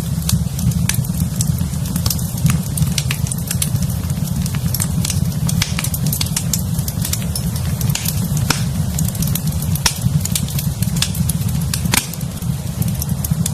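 A fire in a fireplace crackling, with many irregular sharp pops over a steady low rumble.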